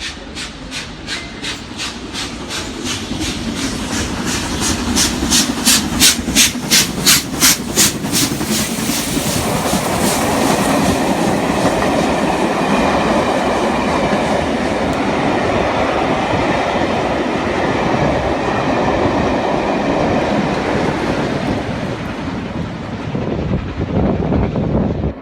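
A train passing at speed. Its wheels click over the rail joints in a quick, even rhythm that grows louder over the first eight seconds, then give way to a steady rolling rumble.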